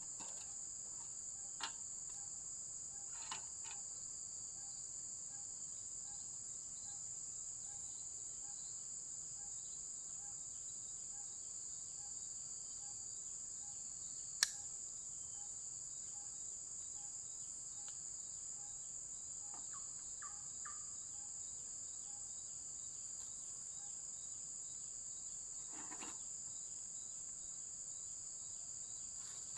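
Insects chirring steadily in a high continuous drone, with a fainter lower call pulsing about twice a second. A single sharp click about halfway through is the loudest event, with a few fainter brief knocks here and there.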